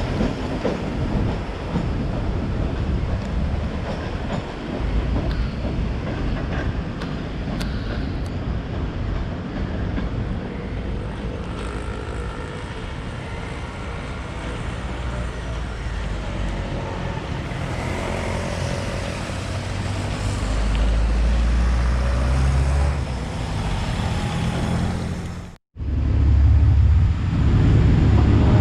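Diesel train running through the station: wheels and rails rumbling, with a low engine drone that grows louder near the end. The sound breaks off abruptly for a moment and comes back as a louder, steady engine drone.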